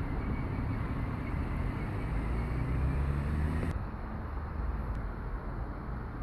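Diesel regional train's engine rumbling low and steady at the station. About four seconds in the hiss above the rumble drops away abruptly, while the rumble carries on.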